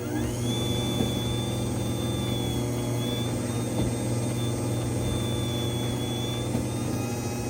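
Garage door opener motor starting up with a quick rising whine, then running steadily with a low hum and a thin high-pitched whine as it drives the door.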